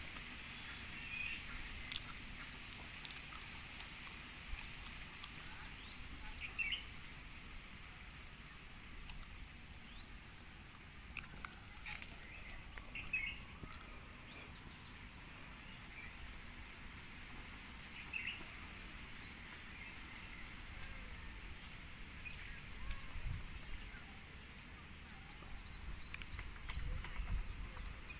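Outdoor ambience: short, scattered bird chirps over a steady high hiss, with low rumbles near the end.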